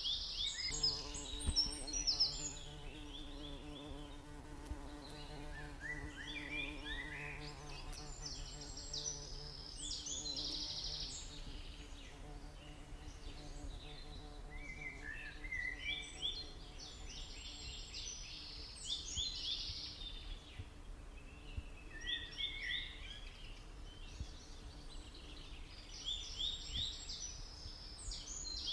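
Stingless bees buzzing in flight close by, a steady hum that fades for a while past the middle and returns near the end, while birds sing repeated high chirping phrases.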